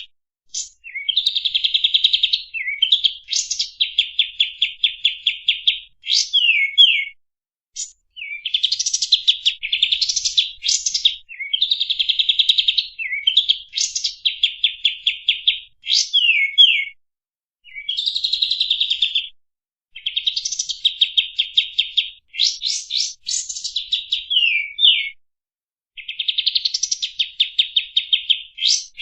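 Song of the kapas tembak bird, played as a masteran training recording. Phrases of rapid, high chattering trills, each one to three seconds long, repeat with short pauses; several end in quick falling slurred notes.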